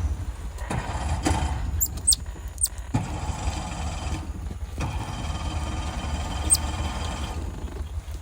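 A steady low rumble under a broad haze, with a few short, very high-pitched squeaks, two or three about two seconds in and one more past six seconds.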